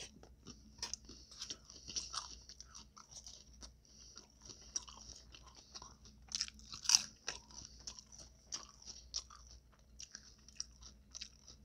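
Close-miked chewing of a taco: irregular wet crunches and mouth clicks, with a louder crunch about seven seconds in.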